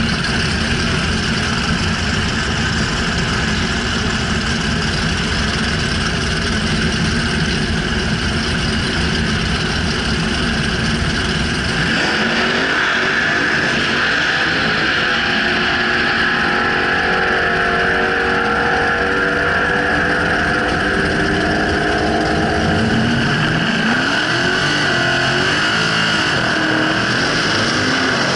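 Injected HQ Holden drag car's engine running loud with a heavy, dense rumble. From about twelve seconds in the rumble thins out and the engine revs up and down in pitch.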